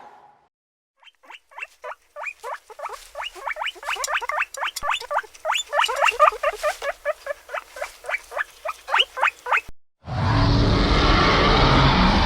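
A fast run of short rising animal calls, about five a second, that stops suddenly, followed about ten seconds in by a loud whoosh-like rush of noise.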